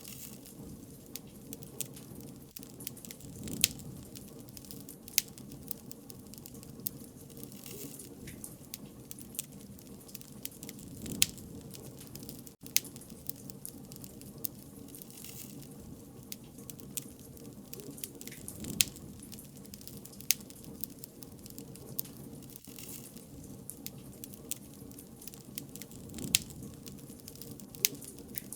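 Wood fire crackling, with sharp pops and snaps every second or so over a low, steady rush of burning.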